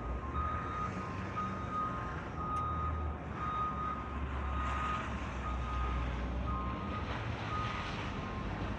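A truck's backup alarm beeping about once a second as it reverses, over the low rumble of its engine.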